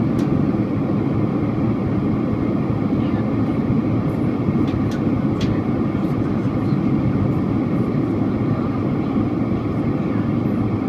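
Steady cabin noise inside a Boeing 767-400ER airliner: an even, low rumble of the engines and airflow, with a few faint clicks.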